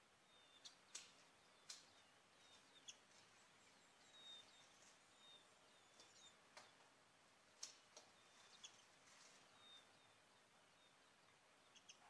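Faint, short high chirps of white-eyes at the nest, repeated irregularly about once a second, with a few sharp ticks among them.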